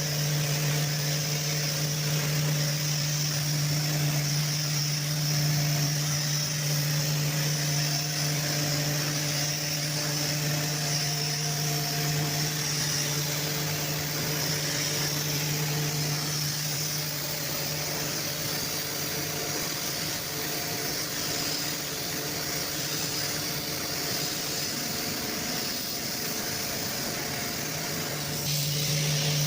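Steady machine hum from an electric motor, with a constant airy hiss over it. The low hum fades about two-thirds of the way through and comes back strongly near the end.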